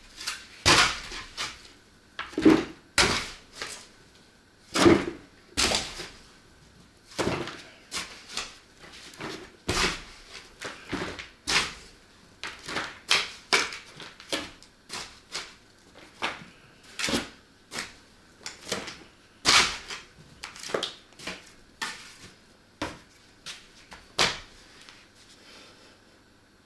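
A long, irregular series of sharp knocks and bangs, about one or two a second, some much louder than others.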